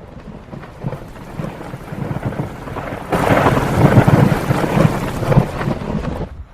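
Thunderstorm: steady rain with a roll of thunder that swells about three seconds in and rumbles loudly, then cuts off abruptly near the end.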